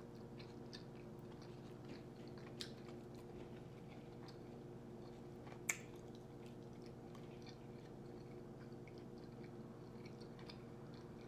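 A person chewing soft baked potato close to the microphone, with quiet mouth sounds and small clicks. A steady low hum runs underneath, and there is one sharp click about six seconds in.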